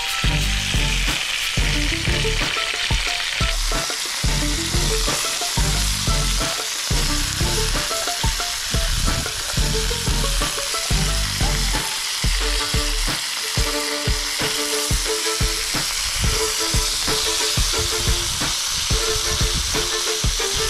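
Butterflied marron in a butter marinade sizzling steadily as they fry. Background music with a steady beat plays under it.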